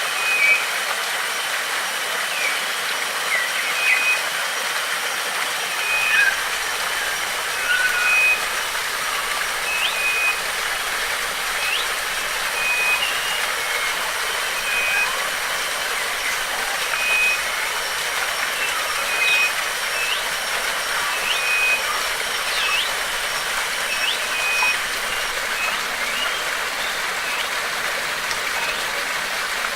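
Steady rushing of flowing water, with birds calling over it: a short high note repeated about once a second, and scattered quick chirps.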